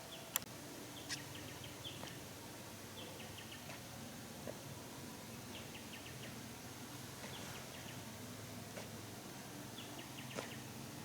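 Bird chirping in short quick runs of high notes every second or two, over a steady low background hum, with a few sharp clicks, the loudest about half a second in.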